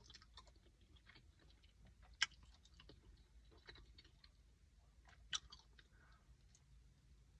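A person chewing food close to the microphone: faint, soft wet mouth clicks throughout, with two sharper clicks, one about two seconds in and another a little past five seconds.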